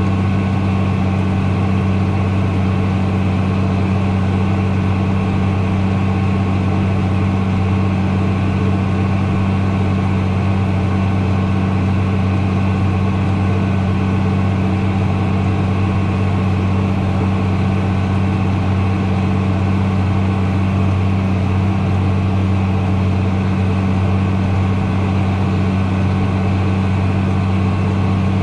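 An engine idling with a steady, unchanging low drone.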